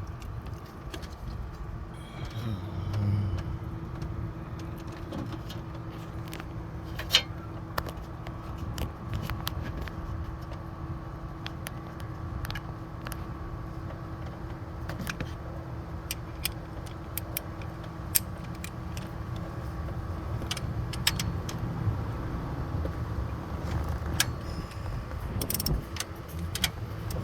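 Metal hand tools clinking and clicking against engine parts while the belt tensioner is worked on: scattered sharp clicks and small clanks, over a steady low hum.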